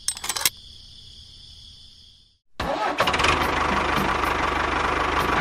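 Steady high insect chirring with a few clicks, breaking off after about two seconds. Then a small engine starts and runs loudly with a steady low pulse.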